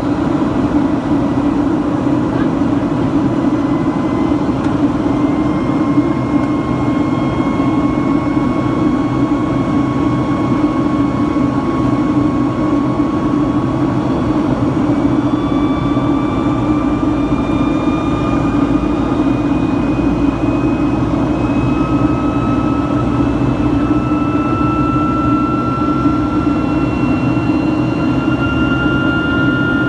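Boeing 757-200 with Rolls-Royce engines, heard inside the cabin: a steady jet-engine roar with a thin whine that slowly rises in pitch.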